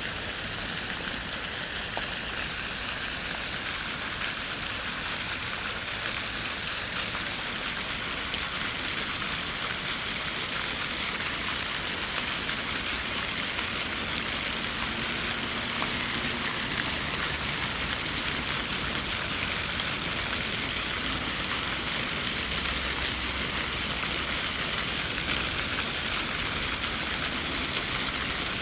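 Fountain water spraying and falling into a pool, a steady hiss of splashing water that grows slightly louder towards the end.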